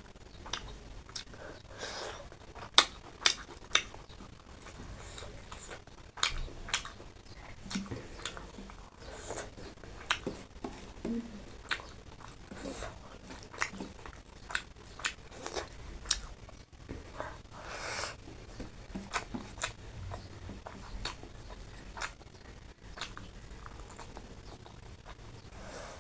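A person chewing and eating close to the microphone, with frequent, irregular sharp mouth clicks and smacks.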